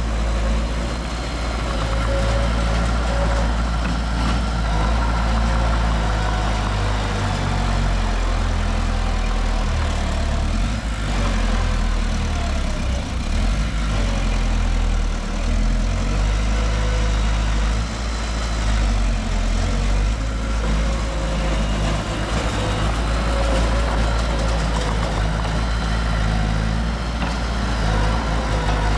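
Heavy construction machine's diesel engine running steadily at low revs, with a steady low engine note throughout.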